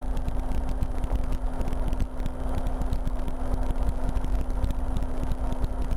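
RotorWay experimental helicopter in flight: steady engine and rotor drone with a constant hum over a dense low rumble.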